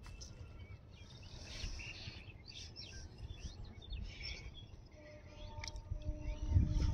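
Small birds chirping over steady outdoor background noise. Near the end a louder low hum with a steady tone comes in.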